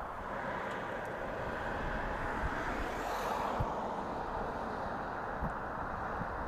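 Jet aircraft engines giving a steady rushing roar that swells briefly about halfway through, with a few brief low thumps.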